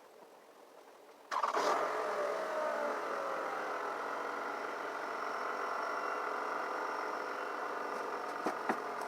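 Car engine starting about a second in, its pitch easing down as it settles into a steady idle. A couple of short clicks near the end.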